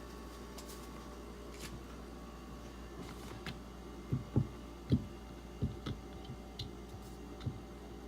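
A handful of dull, low knocks from strops or a knife being handled and set down on a bench, bunched together from about halfway through, over a steady low hum.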